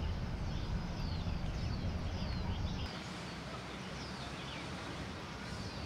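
Birds chirping with many short, falling calls over steady outdoor background noise; a low rumble underneath drops away about three seconds in.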